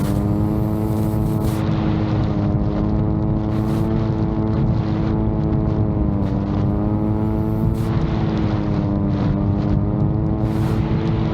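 Propellers of a VTOL drone running with a steady multi-toned hum whose pitch sags slightly now and then, as the drone flies in strong wind. Gusts buffet the microphone repeatedly.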